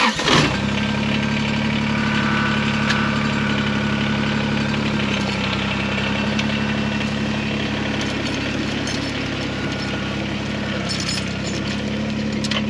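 Kubota BX23S sub-compact tractor's three-cylinder diesel engine starting right at the beginning, then idling steadily.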